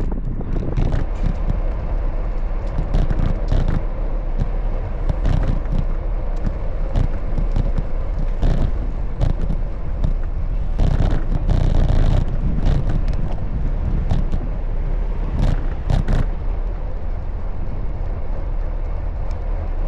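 Street traffic with a steady low rumble, broken by frequent short knocks and rattles.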